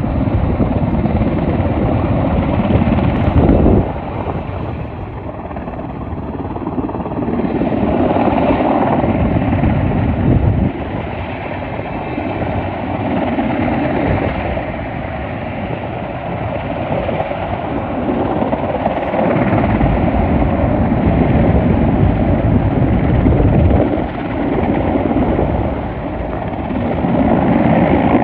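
Firefighting helicopter hovering while it fills up with water: loud, continuous rotor and engine noise with a steady hum, swelling and dipping in level several times.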